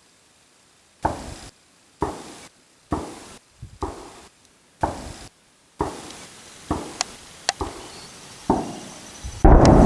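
Rifle shots, about one a second, each a sharp crack with a short tail, fired at a Tannerite target. Half a second before the end, the 30-pound Tannerite charge packed in the old car detonates: a much louder blast with a long, heavy rumble.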